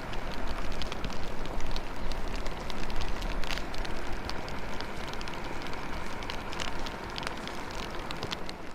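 Rain falling steadily, a continuous hiss with many small drop ticks scattered through it.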